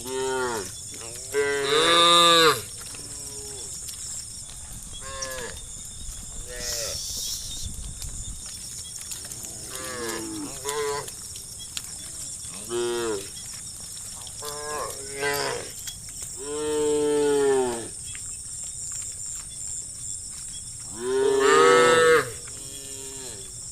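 A herd of cattle mooing, call after call, some short and some drawn out. The loudest, longest moos come about two seconds in, around seventeen seconds, and near the end.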